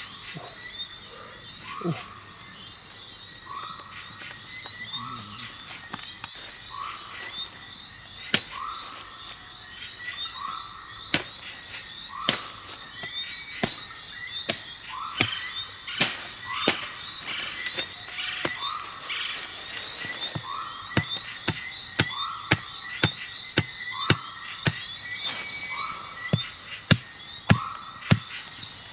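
Frogs croaking, a short call about once a second, over a steady high insect drone. Sharp clicks or knocks come in often, louder and more frequent in the second half.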